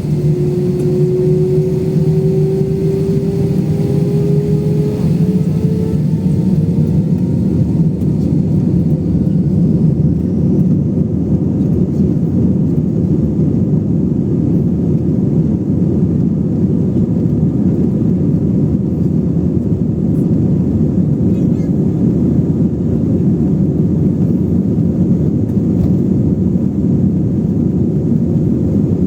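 Airliner's engines heard from inside the passenger cabin at takeoff: a loud, steady rumble, with a whine rising slowly in pitch over the first several seconds.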